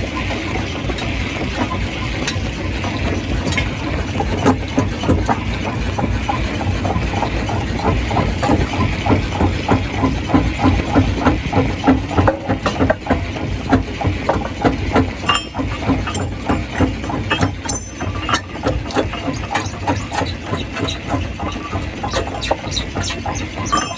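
Stone crusher running under load: a steady low machine drone with dense, irregular knocking and clattering of rock being broken, which grows busier about four seconds in.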